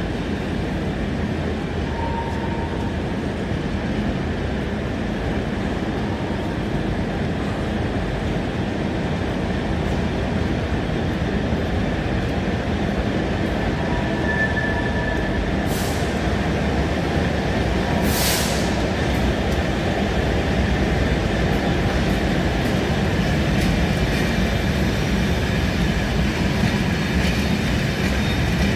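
Passenger train running along the line, heard from on board: a steady rumble of wheels on rails that grows slightly louder, with two brief hisses about sixteen and eighteen seconds in.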